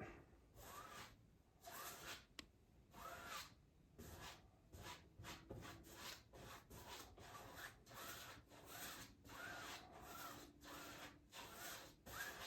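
Faint scratchy strokes of a paintbrush rubbing acrylic paint across a canvas, back and forth about twice a second.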